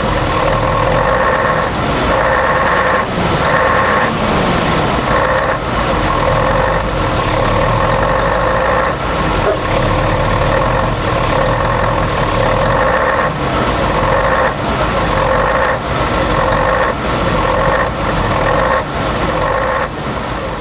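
Mercedes-Benz biturbo V8 turbodiesel engine of a Neoplan double-decker coach running steadily, a deep rumble with a steady high whine on top.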